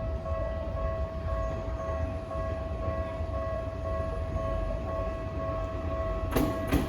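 Japanese level-crossing warning bell ringing steadily as a Tokyu Ikegami Line train approaches. Near the end the train's rush of noise comes in, starting to pass the crossing.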